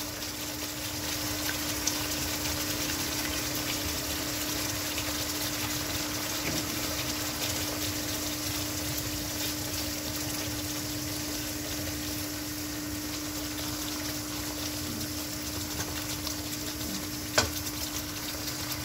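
Tomato-onion masala frying in a pan, a steady sizzle with a low hum underneath. A single sharp knock comes near the end.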